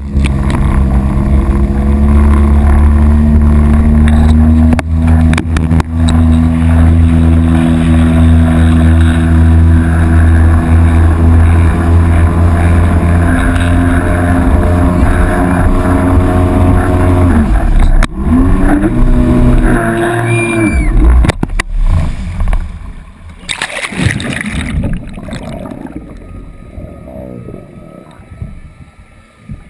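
A jet ski engine runs steadily at speed, then cuts out abruptly about two-thirds of the way in as the craft flips. Some brief rising and falling tones and a burst of splashing water follow, fading to quiet gurgling.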